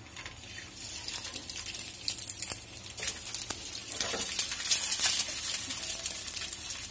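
Pierced boiled eggs sizzling in hot ghee in a frying pan: a steady high hiss full of fine crackles and spatters, growing louder about a second in and again near the middle as more eggs go in.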